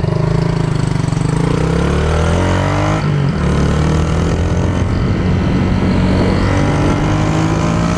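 Honda Titan 150 motorcycle's single-cylinder four-stroke engine pulling under way, rising in pitch as it accelerates. About three seconds in the pitch drops with a gear change, then climbs slowly again.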